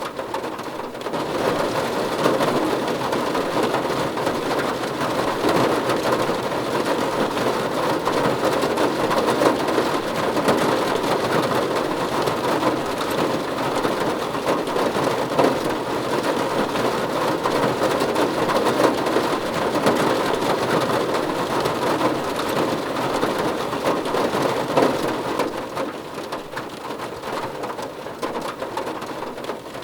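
Steady heavy rain drumming on a car roof, a dense patter that swells about a second in and eases off near the end.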